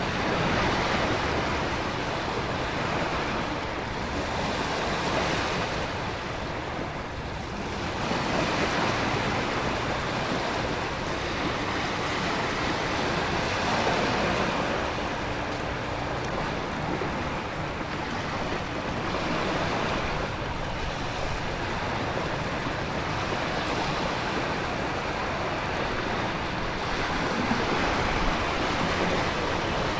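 Storm ambience of heavy rain and wind with ocean waves surging, the noise swelling and easing every few seconds.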